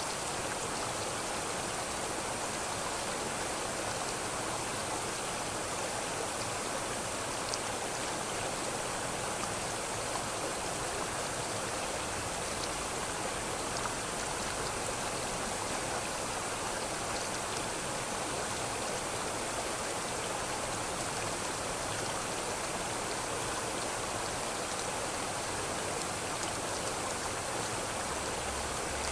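A river's water flowing and rushing steadily, an even rushing noise with no breaks.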